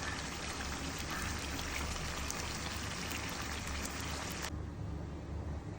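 Chicken leg pieces sizzling in spiced masala in a pan, a steady crackling hiss that cuts off abruptly about four and a half seconds in.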